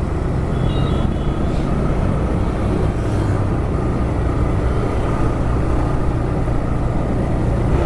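TVS Raider 125's single-cylinder engine running at steady low revs, with the clutch held mostly in and only slightly let out, so the bike creeps along.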